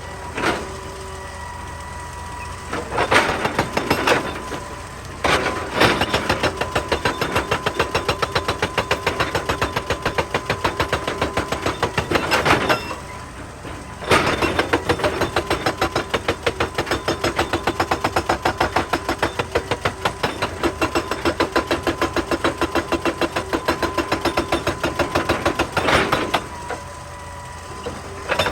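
Excavator-mounted hydraulic rock breaker hammering rock in long runs of rapid, evenly spaced blows over the diesel engine. It stops briefly near the start, about halfway through and near the end, leaving the engine running alone.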